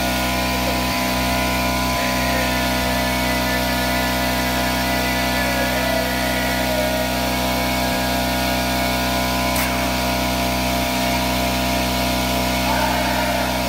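Earthquake impact wrench hammering steadily and without a break on a stubborn lift-kit nut that is not breaking loose.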